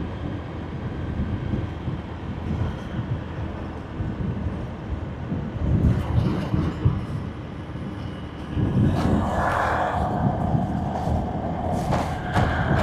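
Wind buffeting the microphone over the rumble of a motorbike and road noise on a ride. About two-thirds of the way through it gets louder, with a steady higher hum added on top.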